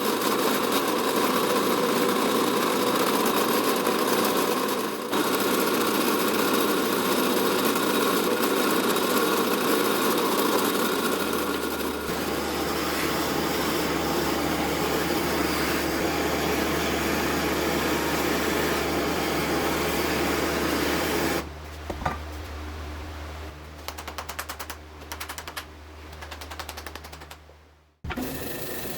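A power tool running steadily in several cut-together stretches, with a low hum joining partway through. Near the end it turns quieter, with a rapid ticking, and cuts off abruptly.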